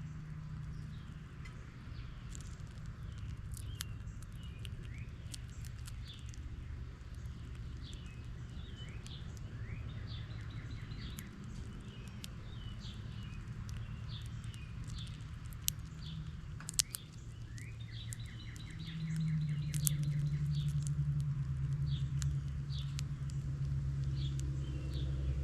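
Small songbirds chirping repeatedly, with a couple of rapid chattering trills, over scattered sharp clicks and a steady low rumble that grows louder about 19 seconds in.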